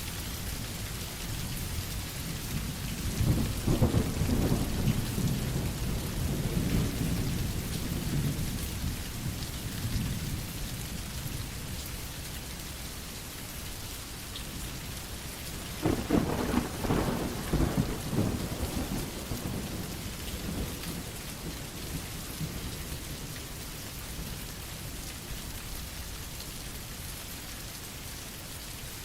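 Steady rain falling, with two rolls of thunder: a long low rumble beginning about three seconds in, and a sharper, louder clap about halfway through that rumbles away over a few seconds.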